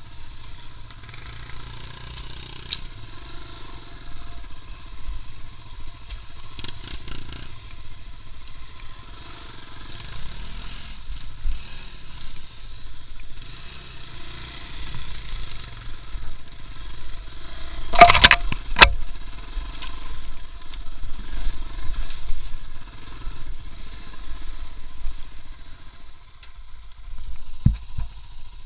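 A motor vehicle engine running steadily, with two loud sharp knocks close together about eighteen seconds in and a smaller knock near the end.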